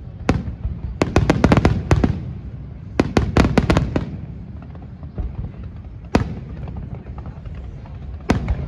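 Aerial fireworks shells bursting in volleys of sharp bangs: one bang at the start, two rapid clusters of about six bangs around one and three seconds in, then single bangs about six and eight seconds in, with a low rumble between.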